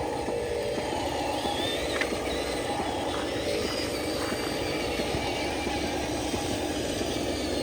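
Small electric motors of radio-controlled construction models running, a thin whine that wavers in pitch over a steady rushing noise.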